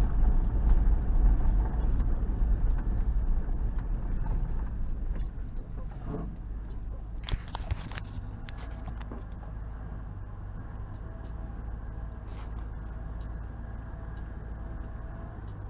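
Two-door Chevy Tahoe's engine running as the truck drives. It is loud at first and eases off over the first five seconds to a steady, lower run, with a few sharp clicks about seven to eight seconds in.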